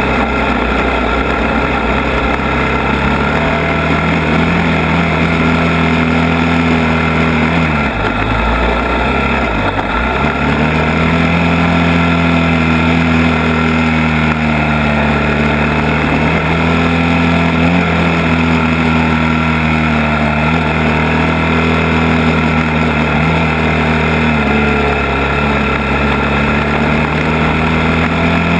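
ATV engine running under way on a trail ride, its pitch dipping and rising as the throttle is eased off and opened up again, with a marked dip about eight to ten seconds in.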